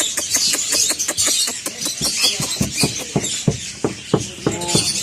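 Dense chirping of many small cage birds, a quick run of short sharp calls, with a brief higher whine near the end.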